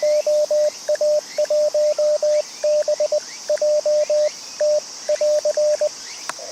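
Morse code (CW) from an amateur radio transceiver: a single steady tone keyed in quick dots and dashes, which stops a little before the end. A click follows, then receiver hiss. Insects chirr steadily in the background.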